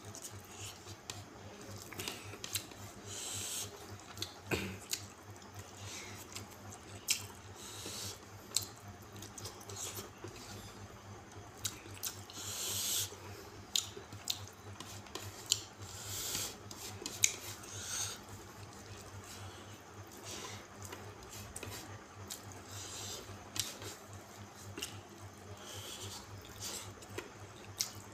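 Close-up eating sounds: chewing and wet mouth clicks and smacks at irregular intervals while rice is eaten by hand from a plate, over a steady low hum.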